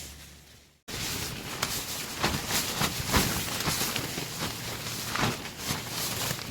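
Strong wind gusting against a dome tent, the tent walls flapping and snapping irregularly over a steady rush of wind. The sound fades out and cuts back in suddenly just under a second in.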